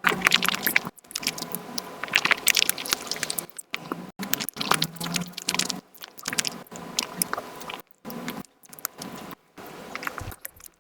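Close-miked chewing and biting of a Nutella pancake crepe, sped up: a dense run of quick wet clicks and smacks, broken several times by abrupt cuts to silence.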